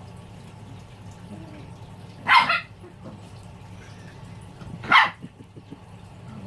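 A puppy giving two short, loud play barks, about two and a half seconds apart.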